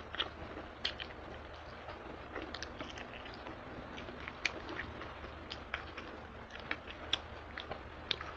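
Chewing and mouth sounds of someone eating chicken wings by hand, with short, sharp smacks and clicks scattered irregularly through it.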